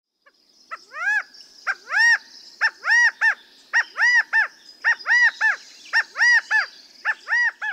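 A bird calling over and over: loud, clear notes that each rise and fall in pitch, mostly in pairs, about one pair a second.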